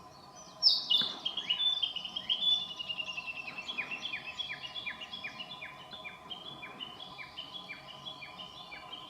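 A forest songbird calling a long series of short, repeated downward-sliding notes, starting suddenly and loud about half a second in, fast at first, then slowing to a few notes a second and fading.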